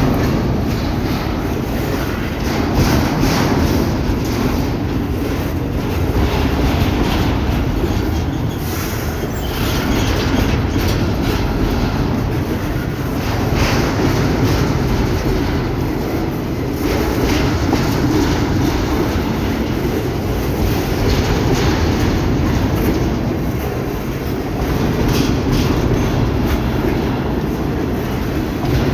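A train's cars rolling past close by, a steady rumble of steel wheels on rail with repeated clacking over rail joints, the loudness swelling and easing about every three seconds.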